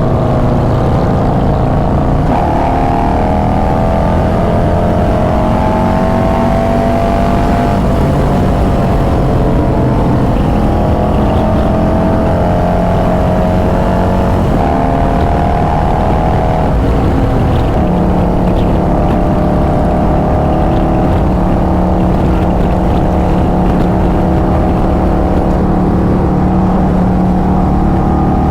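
Harley-Davidson V-twin motorcycle engines running steadily under way on a group ride, their pitch rising and falling slowly with speed over a continuous low road and wind rumble.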